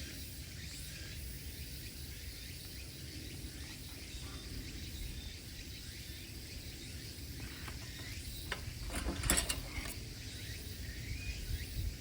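Outdoor ambience: a steady high hum like insects over a low rumble, with a short burst of clicking clatter about nine seconds in.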